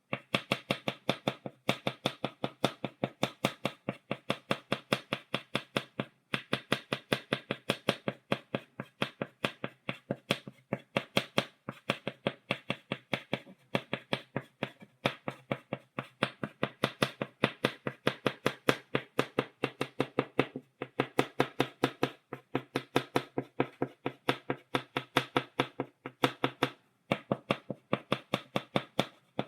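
Chalk tapping against a blackboard, stippling dots: quick, even taps about five a second, with a brief pause now and then.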